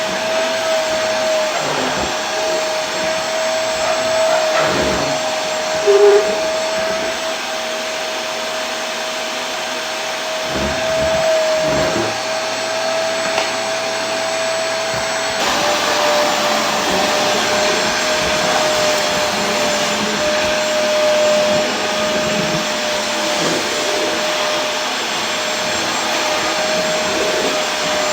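Vacuum cleaner running continuously: a steady rushing hiss with a constant motor whine. A short, louder tonal blip comes about six seconds in, and about halfway through the whine dips slightly in pitch while the hiss brightens.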